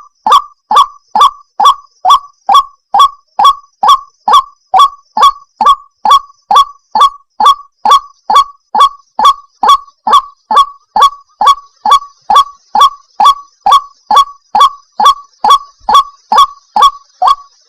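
White-breasted waterhen (ruak-ruak) calling: short, slightly falling 'wak' notes repeated in a fast, even series, about two to three a second. This is the call used as a lure to draw waterhens in.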